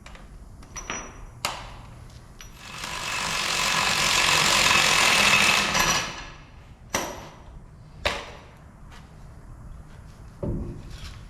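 Scattered sharp knocks and clicks of tools being handled, with a loud hiss of about three seconds in the middle that swells and then cuts off suddenly. Two more single knocks follow near the end.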